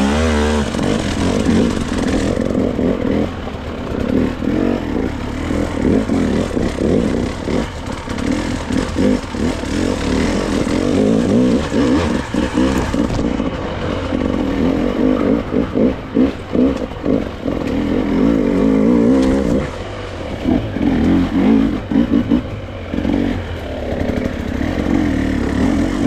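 Dirt bike engine revving up and down unevenly as it picks its way through a rock field, with short clattering knocks from the bike over the rocks.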